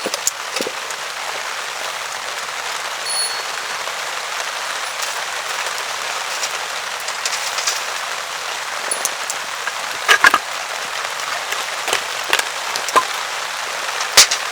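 Rain falling steadily, a constant hiss of drops. Sharp knocks or clicks come a few times, loudest about ten seconds in and near the end.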